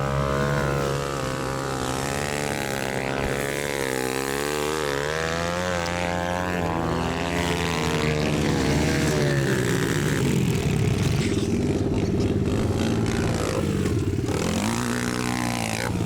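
Dirt bike engines revving up and down as they ride, with the pitch rising and falling through the throttle and gear changes and sweeping like a bike passing by about two-thirds of the way through.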